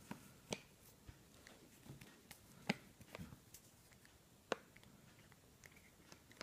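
Faint sharp clicks and crunches of a cat chewing a treat, three of them standing out about two seconds apart over quiet room tone.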